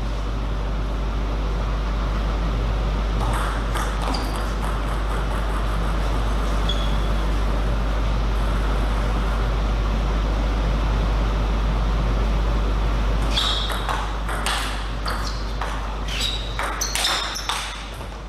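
Table tennis ball being struck and bouncing, with short high pings: a couple of clicks a few seconds in, then a quick run of hits in a rally over the last few seconds. Under it runs a steady hiss and low hum.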